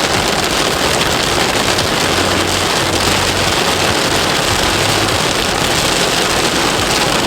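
Heavy rain hitting a moving car's roof and windshield, heard from inside the cabin as a steady, dense hiss over tyre and road noise.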